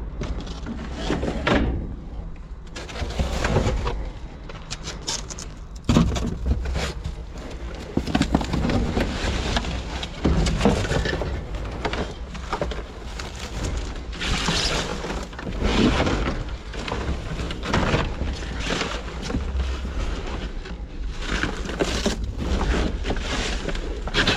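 Rummaging through a dumpster: trash and found items rustling, scraping and clunking as they are handled and shifted, with a sharp thump about six seconds in.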